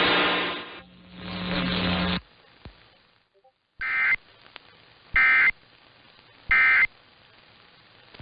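Emergency Alert System end-of-message data bursts: three short, identical warbling digital tone bursts about a second apart, closing the flash flood warning. They follow a loud, dense sound that cuts off about two seconds in.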